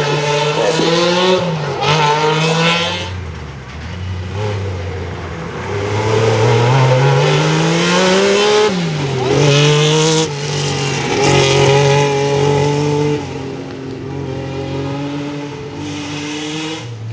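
Rally car engine revving hard as it accelerates through the gears, its pitch climbing and then dropping sharply at each upshift, several times over.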